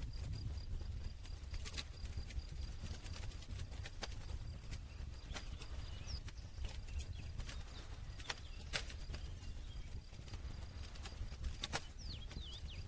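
Campfire crackling: sharp, irregular pops and snaps from the burning wood over a low, steady rumble.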